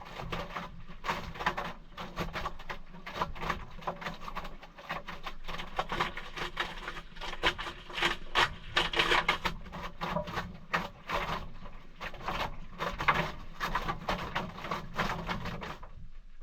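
Maytag washing machine running a cold wash cycle with a load of towels: a steady low motor hum under dense, irregular clicking and knocking as the drum works.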